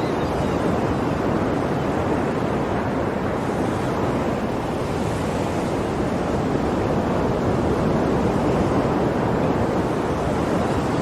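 Ocean waves washing on a shore in a steady continuous surf, swelling only slightly in loudness.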